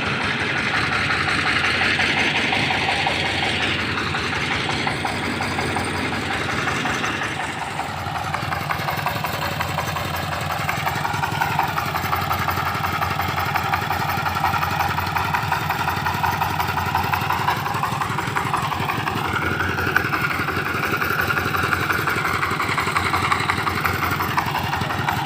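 Engine-driven corn sheller running steadily, its engine chugging fast and even under a higher whine that drifts up and down in pitch.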